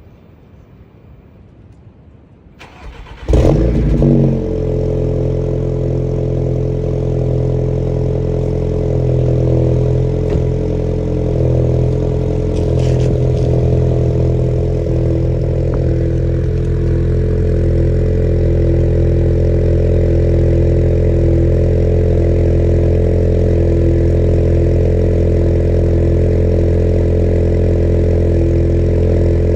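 Audi A4's engine and exhaust starting: a brief crank about three seconds in, a loud flare of revs, then settling into a steady idle.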